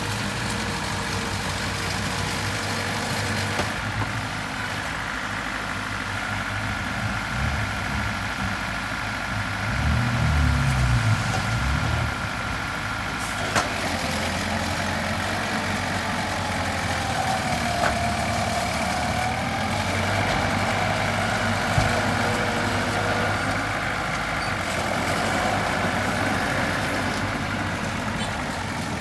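Heavy equipment diesel engine running, louder for a couple of seconds about ten seconds in as it comes under load. A thin wavering whine rides over it for a few seconds later on.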